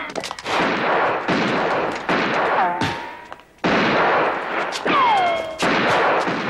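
Repeated gunfire and explosions in quick succession, with falling whistles between the blasts about two and a half and five seconds in.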